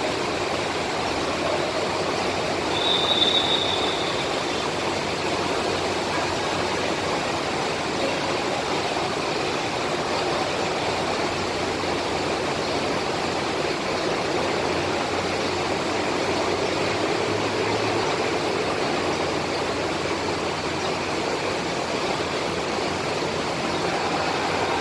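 Heavy rain pouring steadily, mixed with the running of bus engines, and a brief high squeal about three seconds in.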